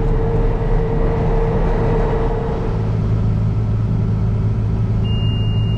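Case IH 7120 tractor's six-cylinder diesel running steadily under load, its low note shifting about halfway through. A steady high-pitched tone comes in near the end.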